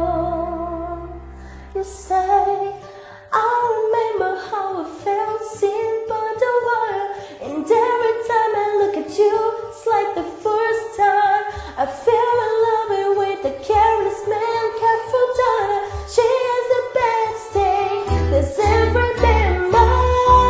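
A pop song sung live over band accompaniment. The low bass drops away after a couple of seconds, the singing comes back in strongly a moment later, and the bass returns near the end.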